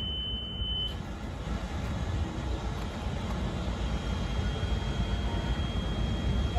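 Steady low rumble of a passenger train standing at the platform, its EMD F59PHI diesel locomotive idling. A high steady beep ends about a second in, and a fainter steady high tone starts about halfway through.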